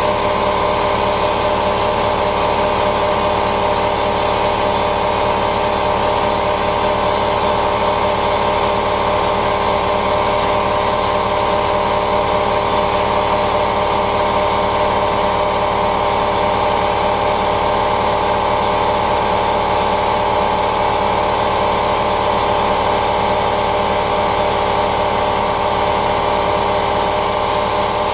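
Spray-painting equipment running: a steady hiss over a constant machine hum, unbroken throughout.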